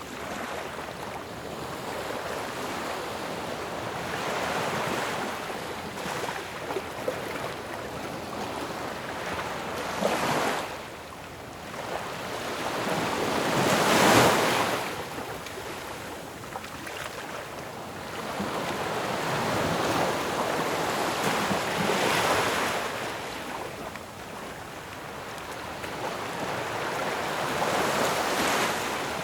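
Ocean waves breaking on a shore in a steady wash of surf, swelling and falling as each wave crashes, the loudest crash about halfway through.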